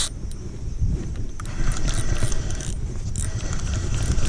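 A fishing reel being cranked while fighting a hooked redfish from a kayak: irregular light clicking and rattling over a steady low rumble.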